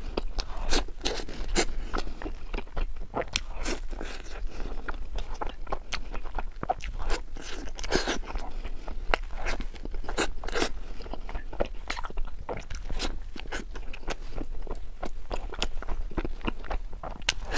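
A person biting and chewing crusty baked bread, close on a lapel microphone: many irregular crisp crunches with chewing in between.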